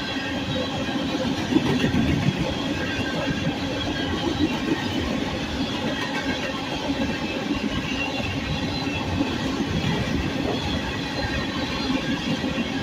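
Train cars rolling past at steady speed, wheels clicking and knocking over the rail joints, with a faint metallic ring from the wheels.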